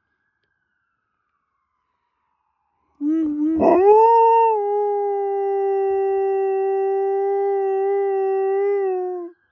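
A dog howling along with a siren: one long howl starting about three seconds in, rising at first and then held steady on one pitch for several seconds before it fades out.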